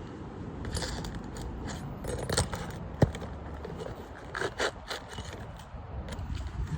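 Scraping and handling noises on roof shingles, as shingles and debris are worked at by hand: several short separate scrapes, with one sharp knock about three seconds in, the loudest moment.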